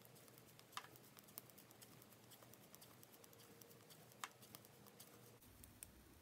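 Near silence with faint ticks of two knitting needles as stitches are worked, with two sharper clicks about a second in and a little past four seconds.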